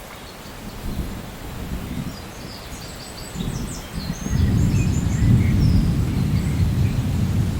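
Rainforest ambience: birds chirping in short high notes over a low, deep rumble that swells much louder about four seconds in.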